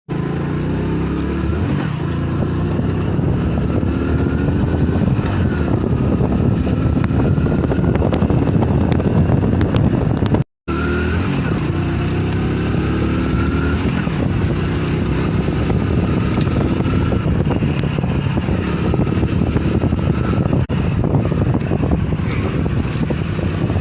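Motorcycle engine running hard under acceleration, its pitch climbing repeatedly and dropping back as it changes gear. The sound cuts out completely for a split second about ten seconds in.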